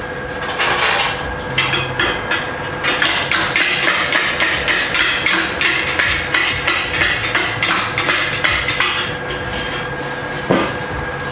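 A rapid run of sharp mechanical knocks, about four or five a second, lasting most of eight seconds, with a last single knock near the end, over a steady thin hum.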